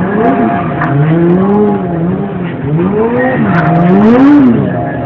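Motorcycle engine revving, its pitch climbing and dropping several times as the throttle is opened and closed.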